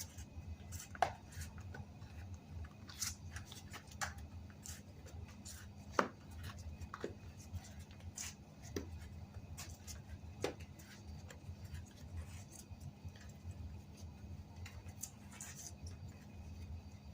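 Scattered clicks and light taps of hands handling a bicycle tire and wheel and the tools for them, the sharpest about six seconds in, over a steady low hum.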